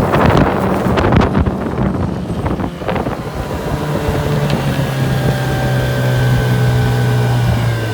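Tohatsu 9.8 hp two-stroke outboard running under way at speed, a steady drone. Wind buffets the microphone for the first few seconds, then the engine note comes through clearly at a somewhat lower, steady pitch.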